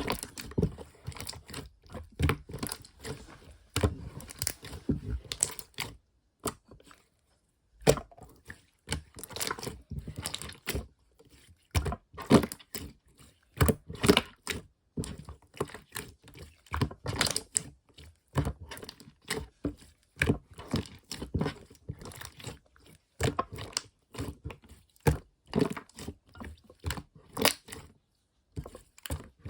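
Slime being squished and worked by hand, making a fast irregular run of sticky clicks and pops, with a couple of short pauses.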